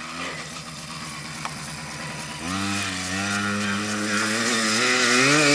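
Motocross bike engine, faint at first. About halfway in it becomes much louder and its pitch climbs gradually as the bike accelerates.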